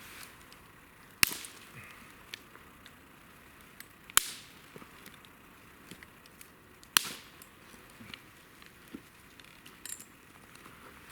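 Wood campfire crackling, with three sharp loud pops about three seconds apart and smaller snaps and ticks in between.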